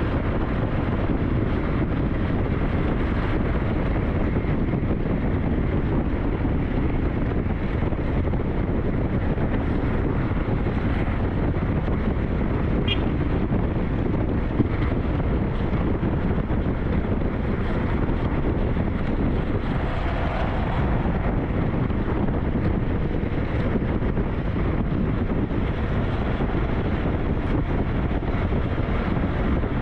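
Steady wind rushing over the microphone and road noise from a SYM NH T 200 motorcycle riding along a forest road.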